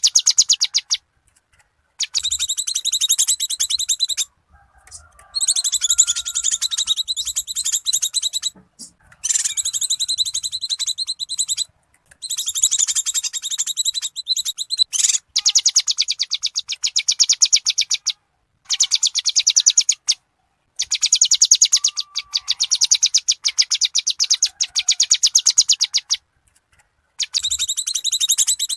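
Cucak kinoi calling in harsh, rapid chattering phrases of about two to three seconds, separated by short breaks: the agitated 'ribut' calls used as a lure for wild kinoi.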